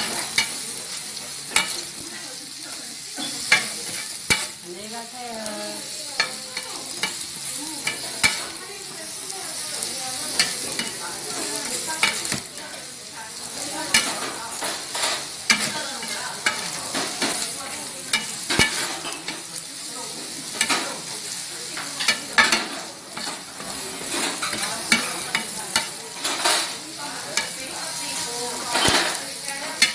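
Dakgalbi fried rice sizzling on a large round griddle pan while a flat spatula stirs and chops it. The spatula scrapes and clacks against the pan again and again at an irregular pace, over a steady frying hiss.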